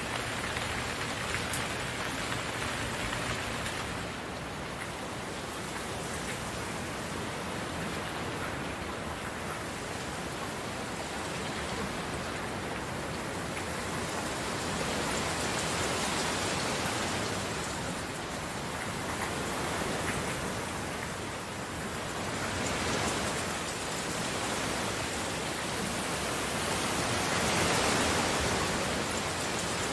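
Steady rain falling, an even hiss that swells and eases gently every few seconds.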